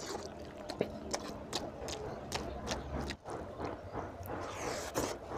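Wet chewing and lip-smacking as oily mutton fat curry and rice are eaten by hand, with irregular sharp smacks and clicks and the squelch of food in the fingers.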